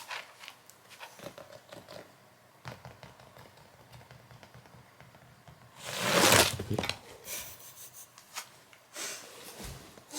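Scattered light knocks and rustles, with one loud burst of rustling about six seconds in that lasts under a second.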